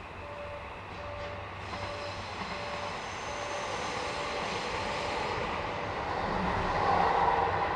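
Train running on the tracks, its rumble growing steadily louder as it approaches. A short electronic tone repeats about every two-thirds of a second over the first few seconds, then fades out.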